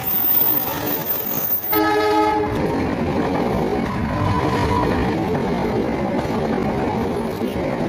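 Diesel locomotive horn sounding one short chord about two seconds in, followed by the steady noise of the passing diesel locomotive and its passenger coaches on the rails.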